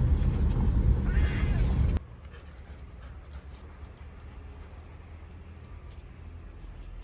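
A cat meows once over a loud low rumble like a moving car's road noise. About two seconds in the rumble cuts off abruptly to quiet background with faint scattered ticks.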